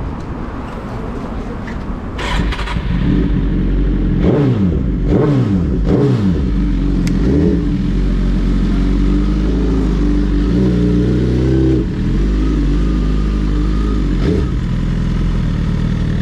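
Sport motorcycle engine running under the rider, getting louder about two seconds in, then its pitch falls and rises as the revs change, before settling into steady running.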